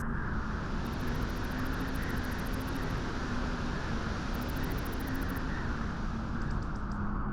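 Steady beach wind blowing, an even rushing noise heaviest in the low and middle range, without gusts or breaks.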